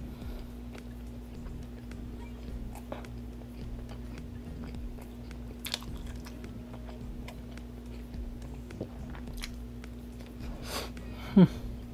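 Close-miked chewing and mouth sounds of a person eating a fast-food burger, with soft clicks scattered throughout. A brief loud low sound comes near the end.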